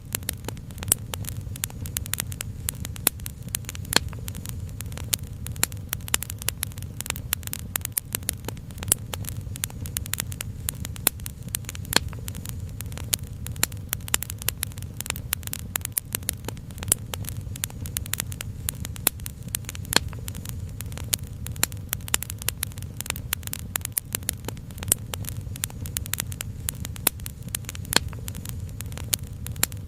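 Crackling fire: many sharp, irregular pops and snaps over a steady low rumble.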